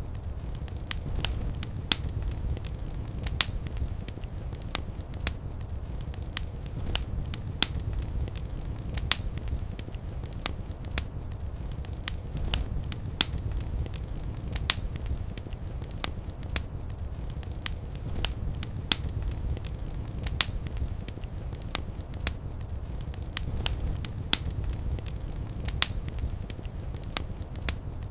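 Fire crackling in a fireplace: frequent, irregular sharp pops and snaps over a steady low rumble of the flames.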